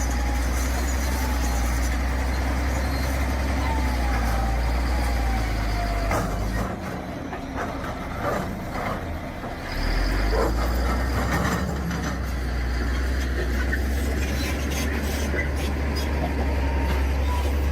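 Heavy diesel machinery running with a steady low engine rumble, which drops away for about three seconds midway before returning.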